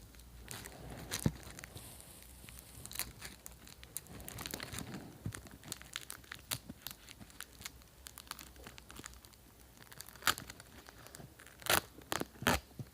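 Snack wrappers being crinkled and crumpled by hand: irregular crackling, with a few louder, sharper crackles near the end.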